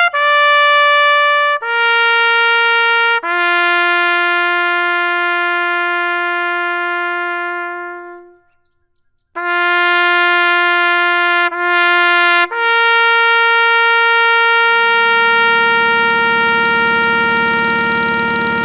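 Solo trumpet playing a slow bugle-call-style melody of long held notes, stepping down in pitch, with a short silence near the middle and a final long held note. A low engine rumble comes in underneath toward the end.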